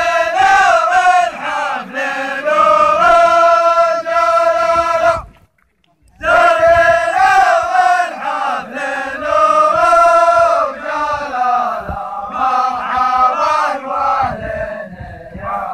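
Najrani welcome zamil: a group of men chanting a tribal poem in unison in long held lines. The chant breaks off abruptly for under a second about five and a half seconds in, then starts again.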